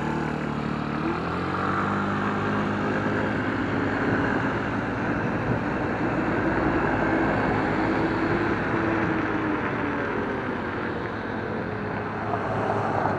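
A motor vehicle's engine accelerating, its pitch rising over the first few seconds and then holding, over steady wind and road noise.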